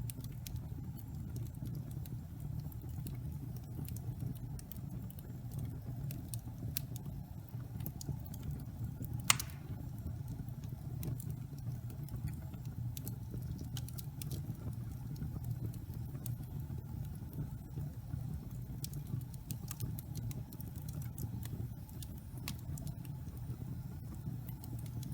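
Wood fire burning in a fireplace: a steady low rumble with scattered sharp crackles and pops, and one loud pop about nine seconds in.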